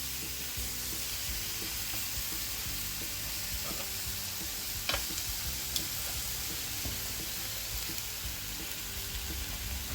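Marinated beef short ribs sizzling steadily in a hot skillet. A couple of short clicks come near the middle.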